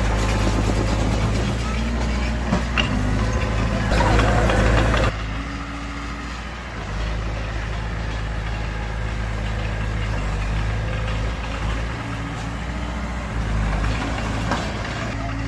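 Heavy diesel machinery engine running steadily with a low, even hum. It drops suddenly to a quieter level about five seconds in, and a few light knocks or clanks are mixed in.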